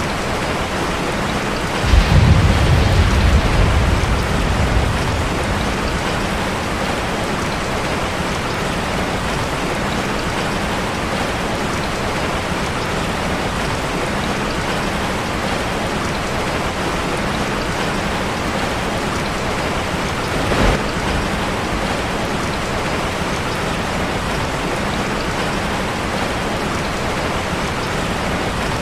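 Steady heavy rain drumming on a metal roof. A low rumble of thunder breaks in suddenly about two seconds in and dies away over about three seconds, and a short sharp crack comes about twenty seconds in.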